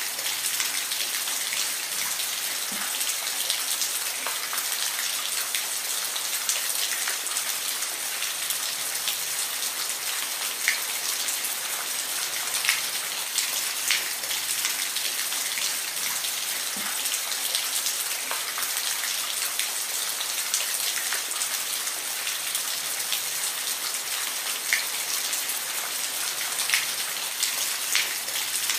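Steady rain falling, a constant hiss with many close drops ticking on a hard surface.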